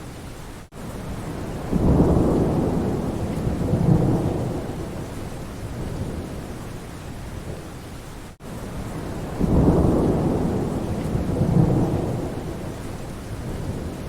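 Steady rain with two rolls of thunder, each starting suddenly and fading away over a few seconds. The same stretch of recording repeats, with a brief dropout just before each roll.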